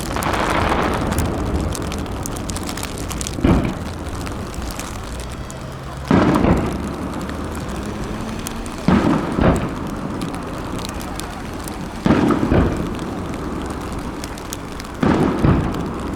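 Aerial fireworks shells bursting with loud booms about every three seconds, several coming in close pairs, each followed by a rumbling echo.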